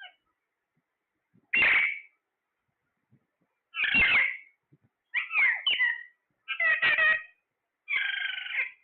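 A parrot giving a series of five short, meow-like squawking calls, each under a second long with brief silent gaps between them. The last call is the longest and the steadiest.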